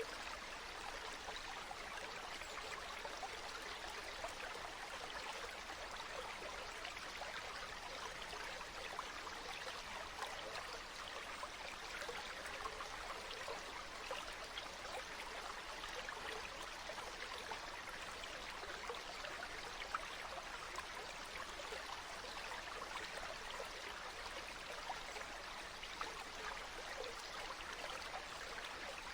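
Steady flowing water of a stream, a continuous babbling trickle with fine splashing flickers.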